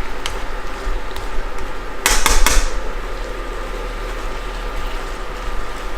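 Utensil clanking against a wok while stir-frying, three quick strikes about two seconds in, over a steady background hum.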